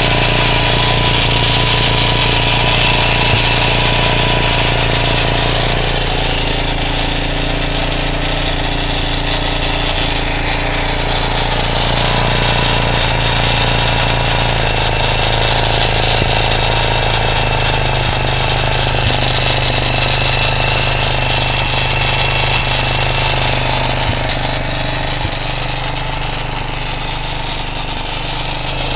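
A 230 engine swapped into a CTX200 motorcycle frame, idling steadily.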